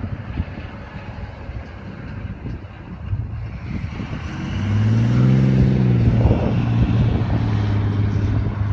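Wind buffeting the microphone, joined about three seconds in by a motor vehicle's engine drone that swells and then holds steady.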